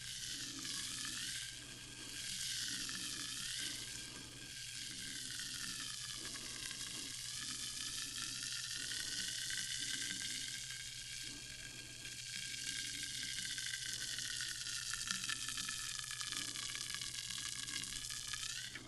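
Carbonated sparkling water fizzing: a dense, steady hiss of tiny bubbles bursting, with a steady low hum underneath.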